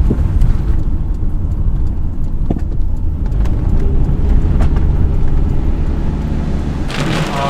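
Steady low rumble of a vehicle moving through a thunderstorm, with scattered raindrop ticks. Near the end a loud hiss of heavy rain sets in.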